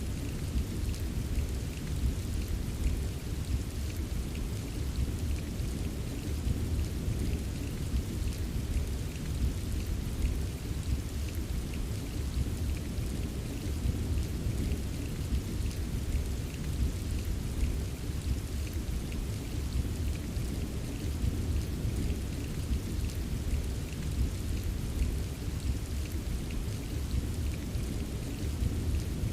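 Steady rain ambience: a constant hiss of falling rain with fine pattering drops over a deep, unbroken rumble.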